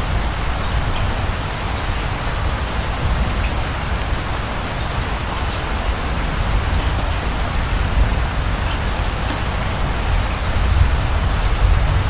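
Steady rain falling, with scattered drops ticking and a deep low rumble underneath that swells near the end.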